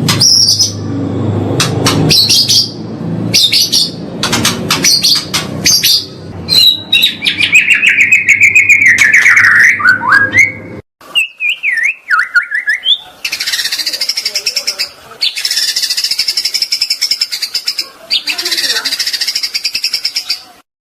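A songbird singing: rapid chirps and whistles, then a long falling whistled phrase. After a brief break near eleven seconds it gives long phrases of fast repeated high notes.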